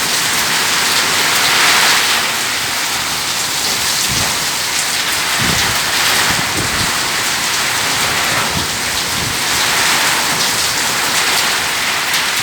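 Heavy rain pouring steadily in a thunderstorm, its hiss swelling and easing in waves. Low rumbles of thunder come in about four seconds in and again near the end.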